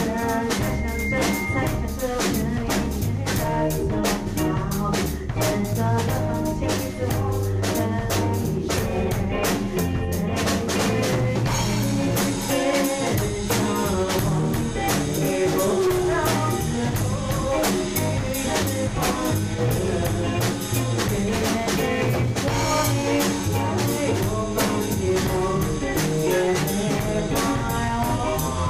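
A band playing an instrumental passage, with a drum kit keeping a steady beat under pitched instruments. The arrangement changes about twelve seconds in.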